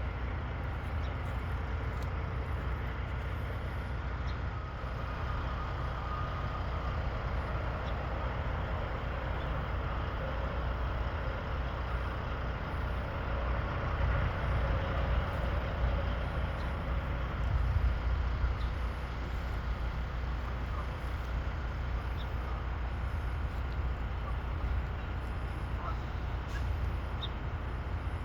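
Steady low rumble and hiss of outdoor background noise, with a few faint, brief high-pitched sounds scattered through it.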